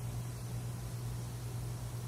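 Steady rushing of running water, an even hiss over a constant low rumble.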